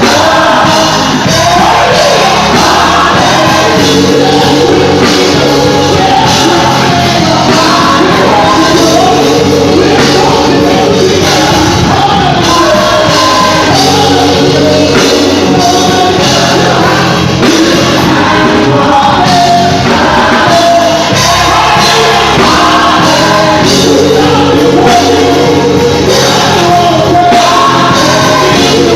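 Live gospel music: singers and a choir with a band, loud and continuous.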